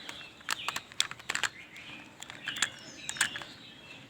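Hard plastic toy parts clicking and knocking together as the lower chassis of a toy cement mixer truck is pressed onto its upper body, in a scatter of sharp taps. Faint bird chirps in the background.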